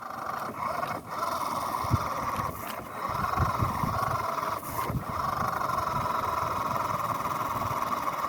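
Toy-grade RC car's small electric motor and gearbox whining at full throttle in first gear as it strains to get out of sand. The whine dips briefly a few times, then holds steady.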